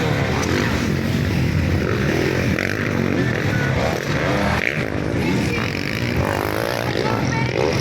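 Several motocross dirt bike engines revving hard on a race track, many overlapping engine notes rising and falling in pitch.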